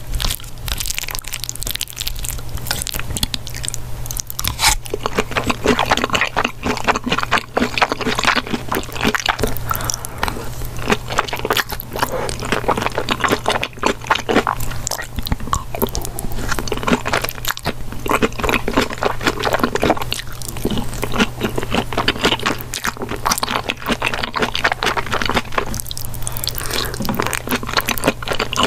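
Close-miked eating sounds: crunching and chewing mouthfuls of sweet corn kernels in melted cheese, with dense irregular crackles and wet mouth noises. A steady low hum runs underneath.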